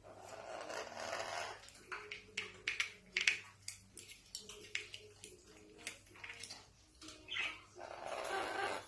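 Parrot making two harsh, raspy screeches, one at the start and one near the end, with sharp clicks and short scratchy sounds in between.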